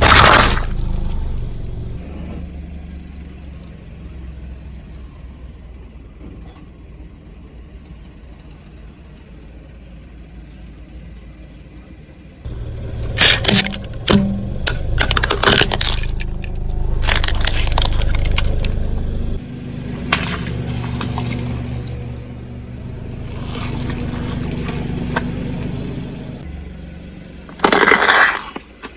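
A car's tyre rolling over objects and crushing them with loud cracks and crunches: one right at the start, a cluster around the middle and another near the end, over the car's engine running, louder as it drives.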